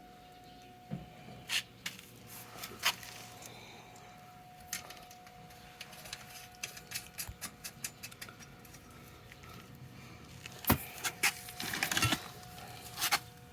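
Scattered metallic clicks and clinks of nuts, bolts and hand tools being handled while nuts are fitted back on a motorcycle frame, with a busier run of clatter near the end.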